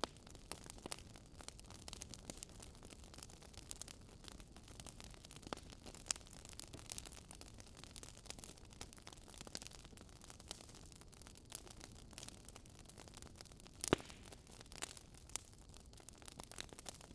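Wood fire crackling softly: irregular small pops and snaps over a faint steady hiss, with one sharper pop near the end.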